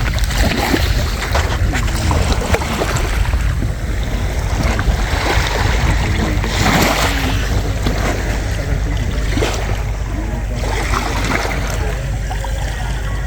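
Sea waves washing up on the shore, swelling and falling, with heavy wind rumble on the microphone.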